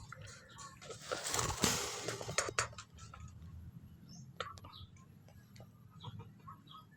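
A small bird's wings flutter briefly about a second in, followed by scattered soft clicks and faint short chirps.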